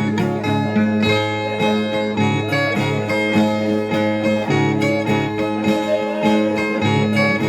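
Ten-string viola being plucked in a repeating instrumental phrase, the interlude played between sung stanzas of a cantoria de viola.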